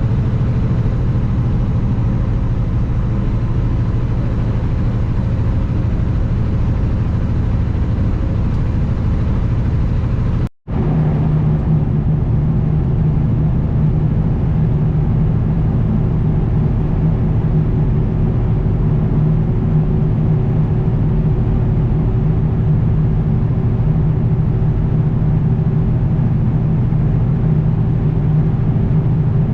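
Diesel engine of a 2021 Kenworth W900 semi truck running steadily under way, a continuous low drone. The sound drops out for a split second about ten seconds in, then the engine runs on with a steady hum.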